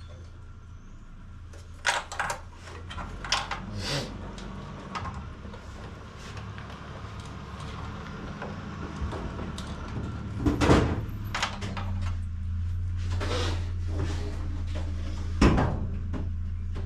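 Scattered knocks and clunks of parts being worked into place by hand, the loudest about two seconds in, near eleven seconds and near fifteen seconds, over a steady low hum that grows louder about twelve seconds in.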